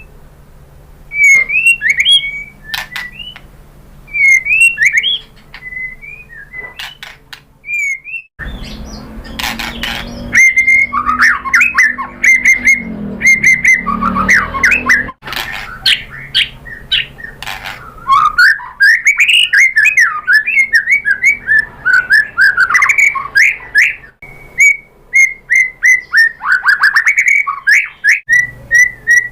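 White-rumped shama singing a fast, varied song of whistles, chirps and rapid repeated notes. About eight seconds in, the recording changes and a low background rumble runs under the song for several seconds.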